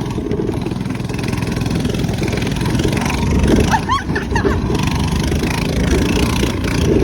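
Minibike's small engine running steadily under load as it is ridden.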